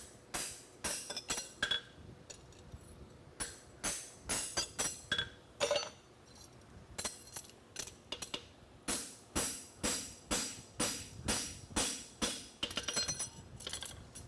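Forging hammer striking a steel horseshoe on an anvil, about two ringing blows a second in runs with short pauses, as the branch of the shoe is shaped from heel to toe.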